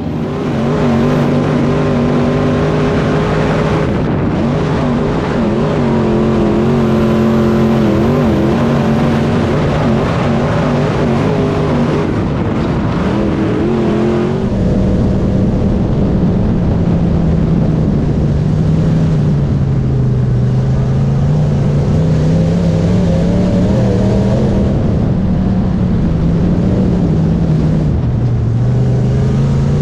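Race car engines running at a dirt track, their pitch rising and falling gently as they circle. The sound changes abruptly about halfway through.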